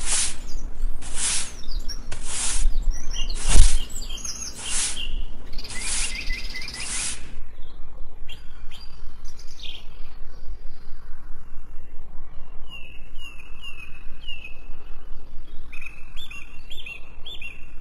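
Birds chirping: loud calls repeating about once a second for the first seven seconds, then softer short chirps in quick runs. A single sharp knock sounds about three and a half seconds in.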